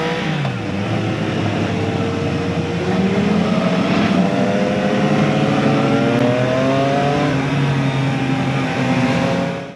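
Motorcycle engine under way, its pitch dropping at a gear change about half a second in, then climbing steadily as it accelerates through the gear before levelling off. The sound cuts off abruptly at the end.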